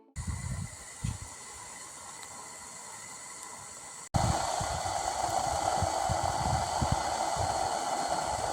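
Outdoor wind noise: a steady hiss with irregular gusts buffeting the microphone. About four seconds in it cuts abruptly to a louder, stronger hiss.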